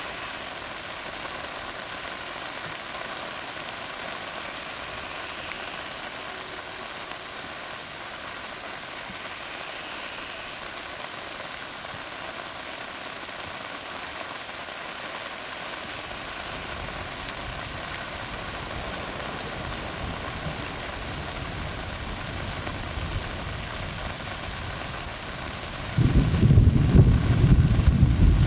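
Steady rain falling on a tarred road, with scattered louder single drops. A low rumble of thunder comes in about halfway, then much louder thunder starts suddenly near the end.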